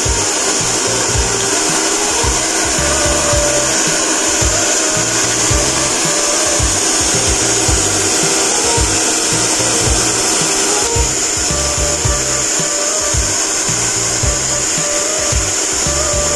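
MAX 5000 W salon hair dryer running steadily: an even rush of blown air with a high hiss over a steady motor hum, switching on and off abruptly.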